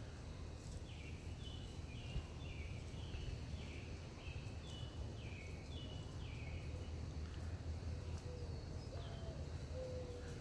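Outdoor ambience with a steady low rumble. A small bird calls a quick series of short falling chirps, about two a second, over the first few seconds, and a few faint low steady notes follow later.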